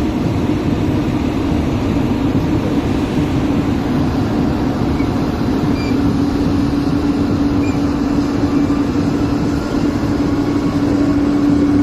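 Heavy diesel machinery running steadily: a dense engine rumble with a constant hum that grows stronger in the second half.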